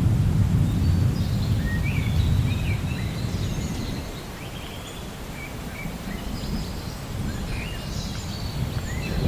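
Rolling thunder rumbling low and fading away over the first few seconds, then building again near the end, while small birds chirp in short, high calls throughout.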